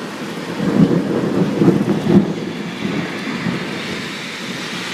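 Thunder rumbling after a lightning flash, swelling about a second in and dying away, over the steady hiss of heavy rain.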